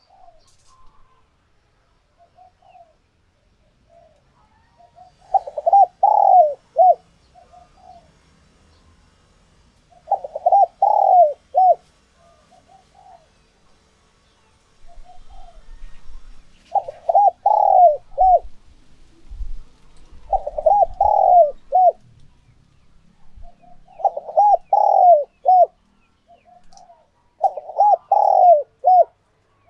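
Spotted dove cooing: six loud phrases of a few quick coos each, coming every three to five seconds, with softer short notes in between.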